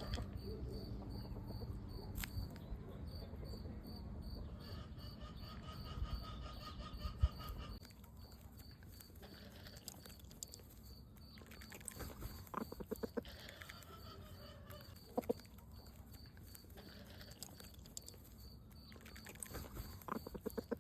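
Faint insect chirping, a steady run of evenly spaced high pulses, over a low rumble that drops away about eight seconds in. Several short runs of clicks come in the second half.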